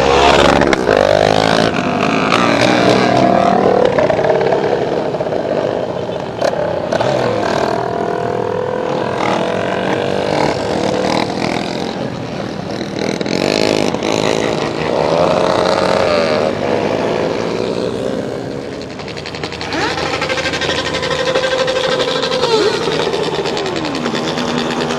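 Several small motorcycle engines revving and passing at once, their pitch rising and falling over and across each other, with one falling away near the end.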